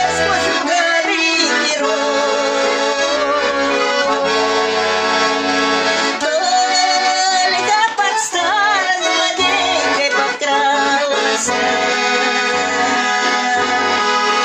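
Garmon (Russian button accordion) playing an instrumental passage: a melody with a little vibrato over short, regularly repeated bass notes.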